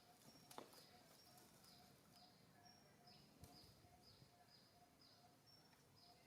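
Faint outdoor ambience with a steady, rhythmic chirping that repeats a couple of times a second, and a few soft clicks.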